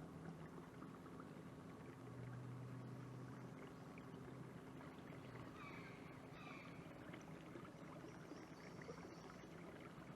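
Faint outdoor ambience: a steady low hum, with a few brief, faint bird chirps about six seconds in and again near the end.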